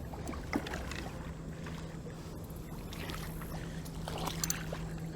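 Hooked fish splashing faintly at the water's edge as it is brought in, with a few short sharp splashes. A steady low hum comes in about a second in.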